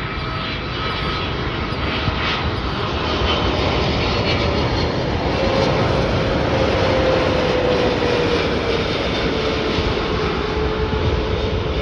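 Boeing 777 freighter's twin GE90 turbofan engines as it flies past on final approach: a jet roar that swells toward the middle and then eases, with an engine whine slowly falling in pitch.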